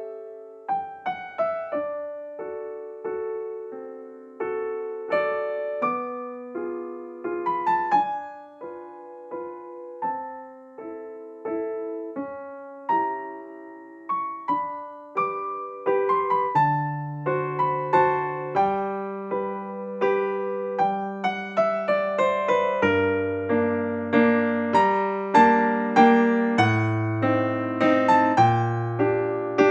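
Instrumental keyboard music: a slow piano melody over held chords, with a deeper bass line joining about halfway through.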